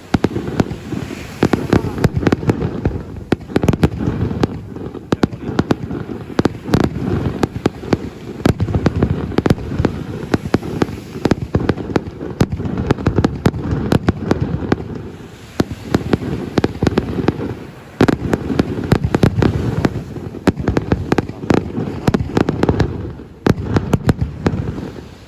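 Aerial fireworks display: a dense, continuous run of shell bursts and bangs with heavy low booms, easing off briefly a few times before building again.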